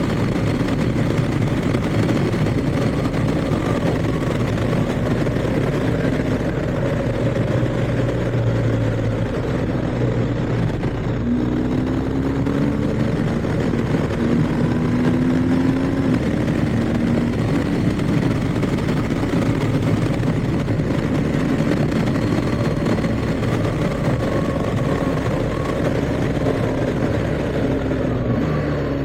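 BMW R1250GS boxer-twin motorcycle engine under way, with wind and road noise. In the middle the engine note climbs in short rising runs broken by shifts as the bike accelerates through the gears.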